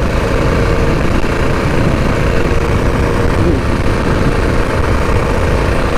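Mini bike's Predator 212 single-cylinder four-stroke engine running steadily while riding, under a heavy rumble of wind on the microphone.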